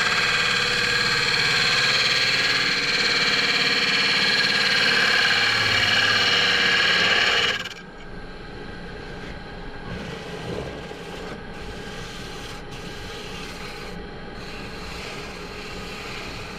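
Wood lathe spinning a thin-walled poplar lampshade while a turning tool cuts it, a loud, steady cutting noise. The cutting stops about halfway through, and a quieter steady running sound carries on.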